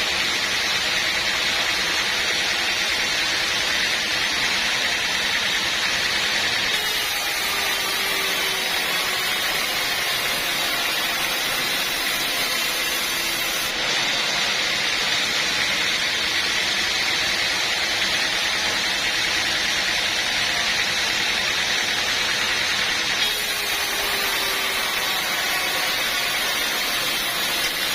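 Sawmill saw running, a steady loud hissing noise with a high whine that does not let up.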